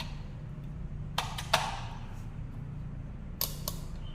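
Four short, sharp clicks over a steady low hum: two about a second in, the second of them the loudest, and two more about three and a half seconds in.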